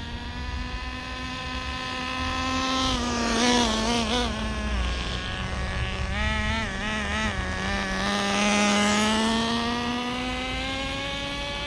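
Traxxas Nitro Rustler's small TRX 2.5 nitro engine running during its break-in at about quarter throttle, a steady high buzz. Its pitch wavers a couple of times as the car is driven and rises gradually over the last few seconds.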